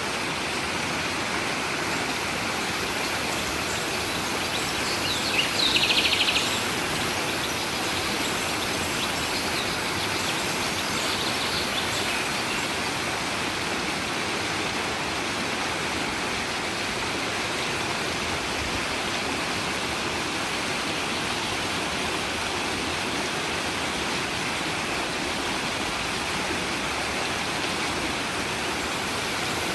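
A stream running steadily. About five seconds in, a bird gives a short, rapid trill, and fainter calls follow a few seconds later.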